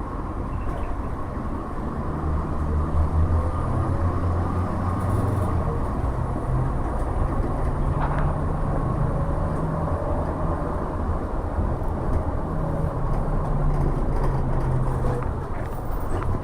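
Inside the cabin of a MAZ-107.466 bus under way: its Mercedes-Benz OM 906LA inline-six turbodiesel running with a low drone that steps up and down in pitch several times, over road rumble.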